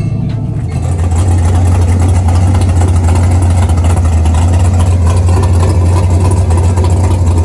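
Big-block V8 engine, a 632 cubic inch, idling loudly and steadily. It grows louder about a second in, then holds an even, deep idle.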